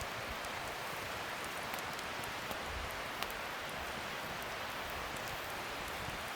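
Wood fire burning with a steady hiss and a few faint, sharp crackles, one a little stronger about three seconds in.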